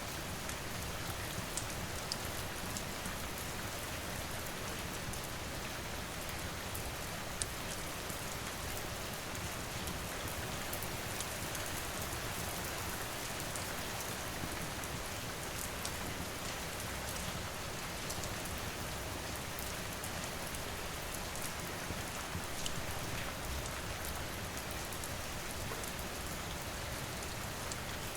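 Steady rain falling, with a few scattered sharp crackles from a wood fire.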